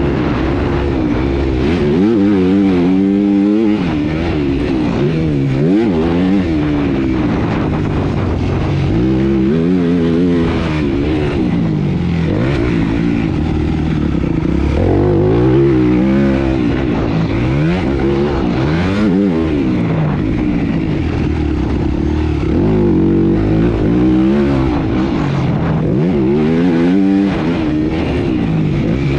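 Motocross bike engine running hard, its pitch climbing and dropping again and again as the throttle is opened and shut through a lap of the track.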